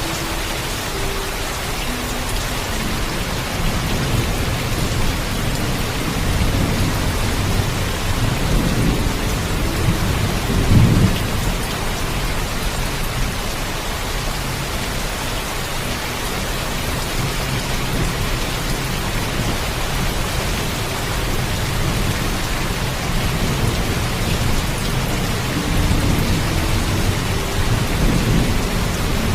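Steady heavy rain with thunder rumbling low in the background, swelling loudest about a third of the way in and again near the end.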